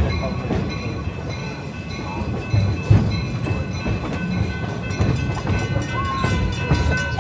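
Passenger train running along the track: a steady low rumble from the rolling cars with scattered clicks and knocks from the wheels, the loudest about three seconds in, and a faint steady ringing tone above it.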